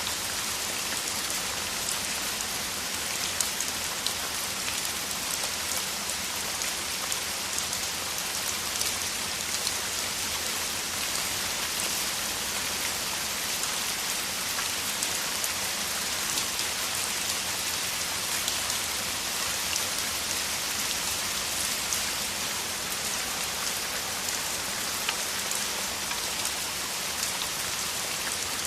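Heavy rain falling steadily, a dense even hiss with many individual drop ticks scattered through it.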